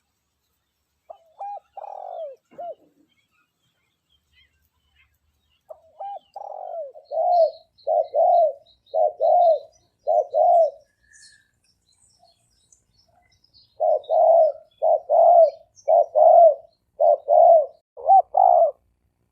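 Spotted dove cooing in runs of short, evenly spaced coos: a brief phrase a second in, a run of about six coos from six seconds, and another of about eight in the last five seconds. It is a decoy dove's call, used to lure and provoke wild doves. Faint chirps of small birds sound high above.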